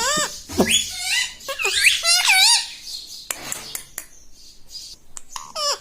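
Pet parrot calling in a rapid string of shrill, rising and falling squawks, followed by a few sharp clicks and one more call near the end.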